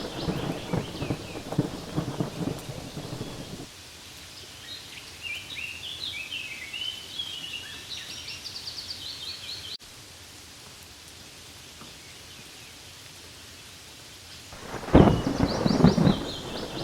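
Rain falling on leaves: loud, dense, low crackling patter for the first few seconds, then a much quieter steady hiss of rain, before the loud patter returns near the end. A bird chirps a series of short calls in the quieter middle part.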